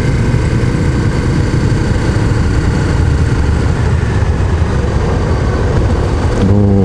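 Honda CRF250M's single-cylinder four-stroke engine running steadily while the bike is ridden at an even pace, with wind noise over it.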